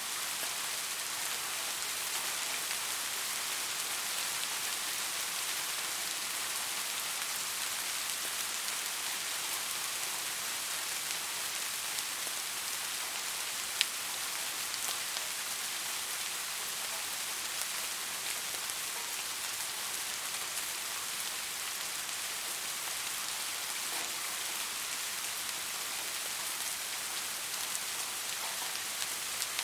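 Steady rain falling: an even hiss of many drops, with scattered single drop hits standing out, one sharper than the rest about halfway through.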